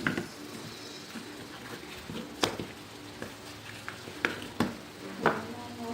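A few sharp clicks and taps from handling and opening a small plastic lamp dimmer, spaced irregularly with about four distinct clicks.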